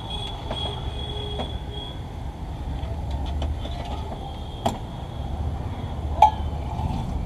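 Steady low rumble of passing vehicles, with a thin high whine in the first two seconds and two sharp clinks in the second half.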